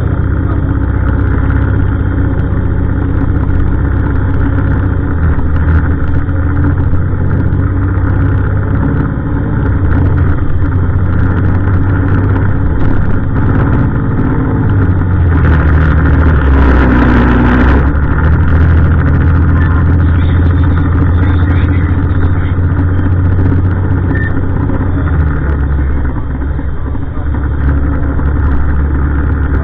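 Heavy diesel garbage truck engine running close by, a loud low drone whose revs rise and fall several times. A brief hiss stands out about two-thirds of the way through.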